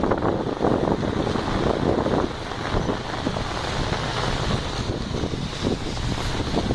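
Gusty wind buffeting the microphone: a loud, uneven rumble that surges and dips.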